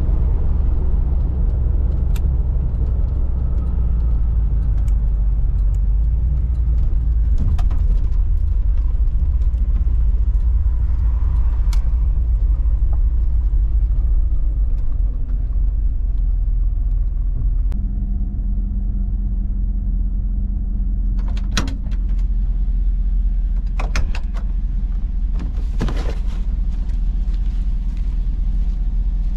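Steady low rumble of a vehicle driving, heard from inside, with scattered light rattles and clicks. About two-thirds of the way through, a steady engine tone joins the rumble.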